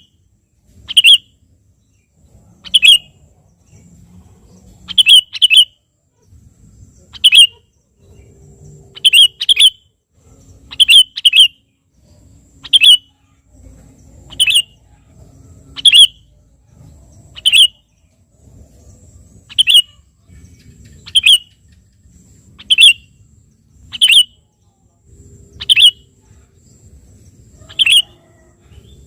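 Sooty-headed bulbul (kutilang) calling over and over: short, loud, clear notes, some single and some in quick pairs, about one every one and a half to two seconds.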